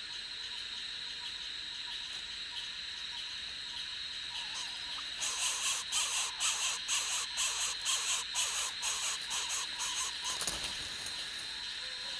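Baby birds giving a rapid series of high squealing calls, about three a second for some five seconds, over a steady high-pitched drone; a single dull thump near the end.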